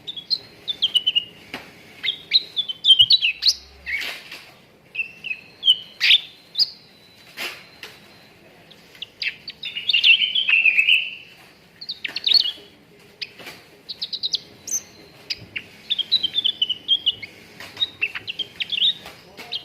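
Cucak ranting singing: rapid bright chirps and short twittering trills in bursts with brief gaps, the fullest phrase about halfway through.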